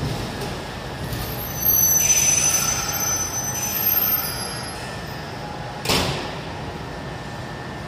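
Sotetsu electric commuter train pulling into an underground station and braking to a stop: steady running rumble, high thin squealing from the brakes and wheels from about two to four seconds in, then one short loud burst near six seconds in as it halts.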